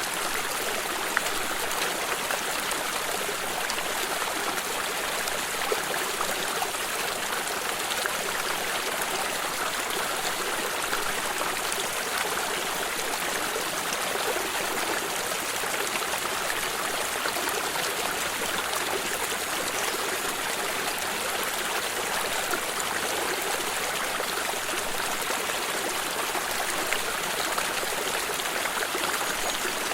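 Water of a stream running and trickling steadily over rocks, with small splashes.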